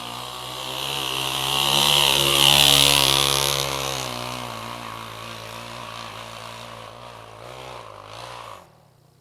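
Enduro motorcycle engine running as the bike passes close by: it grows louder to a peak about three seconds in, then fades as it moves away, and stops abruptly near the end.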